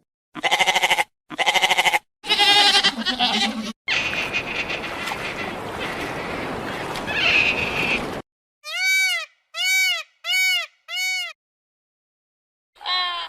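A run of separate animal calls: two short pitched calls, a longer wavering call, about four seconds of noisy sound, then four short arching calls about half a second apart, and a new call starting near the end.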